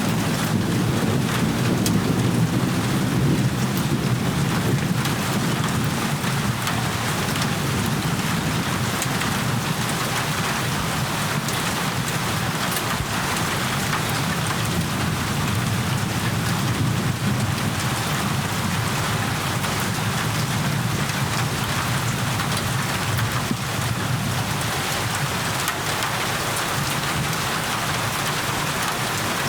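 Steady rain falling, with a low rumble of thunder that is strongest in the first half and then fades.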